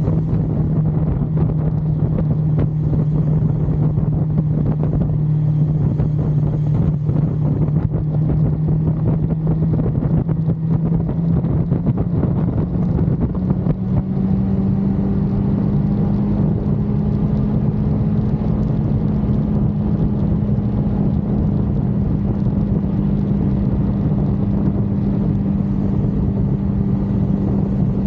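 1982 Suzuki GS550L's air-cooled inline-four engine running steadily at cruising speed, its pitch rising slightly about halfway through and then holding. Wind rushes over the microphone.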